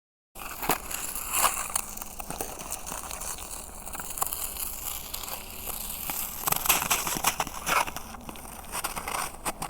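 Footsteps crunching and crackling on snow over frozen pond ice, in uneven steps with sharper crunches now and then. There is a low steady rumble of wind or handling noise underneath.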